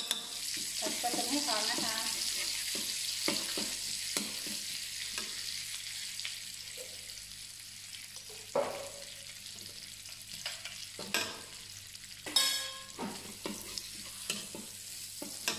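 Tom yum paste and chopped garlic sizzling in hot oil in a wok while a metal spatula stirs them, scraping and clinking against the pan. The sizzle is loudest at the start and slowly dies down, and a loud ringing metal clank comes about twelve seconds in.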